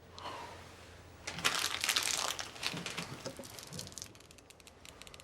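A thin plastic wrapper being crumpled in a hand, crinkling loudly for a couple of seconds, then settling into a run of fine crackles.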